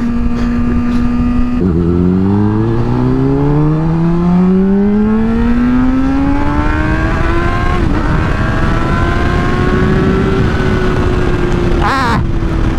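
Motorcycle engine under way, heard from the rider's helmet: it holds a steady pitch, drops at a gear change about one and a half seconds in, then climbs steadily for several seconds as the bike accelerates before levelling off at a steady cruise. Wind rushes over the microphone throughout.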